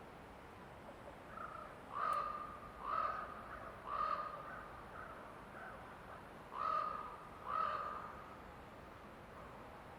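A bird calling: three calls about a second apart, then after a pause two more, over a faint steady background hiss.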